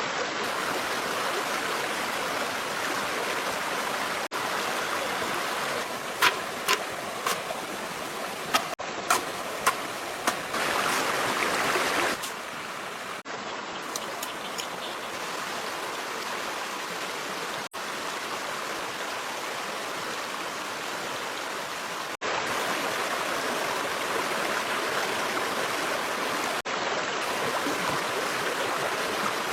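Stream water running steadily, with a short series of about six sharp taps or clicks around the middle.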